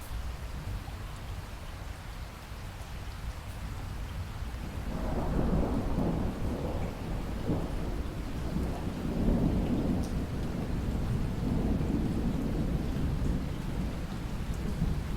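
Steady rain falling, with a long roll of thunder that rumbles in about five seconds in and keeps rolling, swelling and easing a few times.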